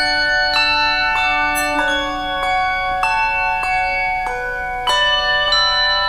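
Handbell choir playing a slow hymn-like tune in chords, a new set of bells struck about every half second and each left to ring on.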